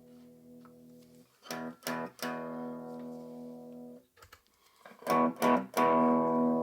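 Guitar strummed through a Blackstar Fly 3 Mini practice amp: a ringing chord dies away, then a few quick strums are left to ring, and near the end louder chords are struck and held. The guitar is terribly out of tune; the amp is giving sound again after its repair.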